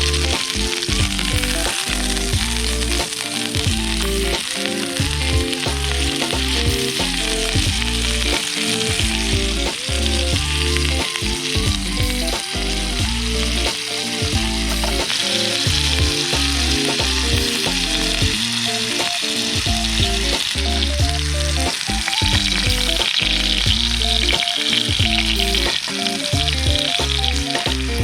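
Food frying, a steady sizzle that grows stronger about halfway through, over light background music.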